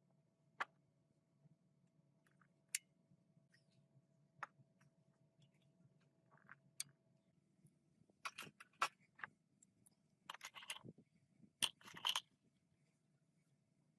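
Scattered small clicks and light knocks over a faint steady hum. The clicks come more thickly as a short clatter about eight to twelve seconds in.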